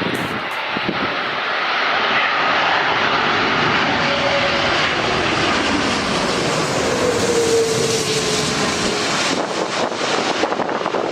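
Aircraft flying low overhead, its engine noise building to a loud, steady rush with a tone that drops slightly in pitch as it passes. Wind buffets the microphone near the end.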